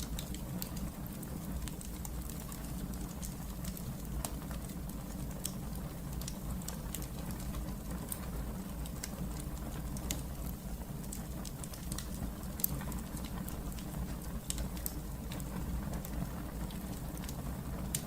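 Wood fire burning in a fireplace, crackling with frequent small irregular pops over a steady low rumble of the flames; one pop stands out louder about two-thirds of the way through.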